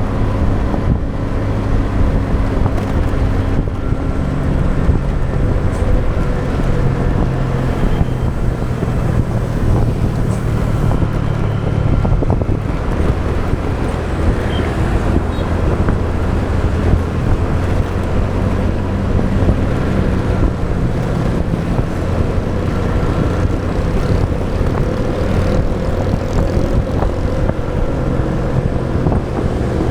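Motorbike engine running steadily while riding, its hum shifting in pitch a few times, with road and wind noise and surrounding traffic.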